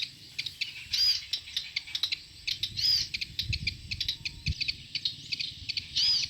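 Small songbird calling: short high arched notes repeated every second or two, among rapid high ticking chirps.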